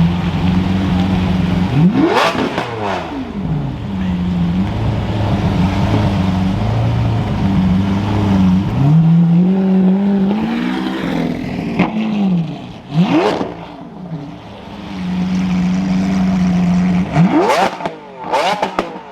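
Car engines running at low revs, with cars driving past close by four times, each pass a brief loud swell. One engine climbs in pitch about nine seconds in, then settles back about three seconds later.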